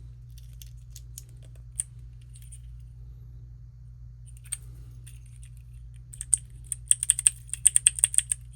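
Plastic keycap clicker keychain being clicked: a few scattered clicks, then a quick run of about a dozen crisp key clicks near the end.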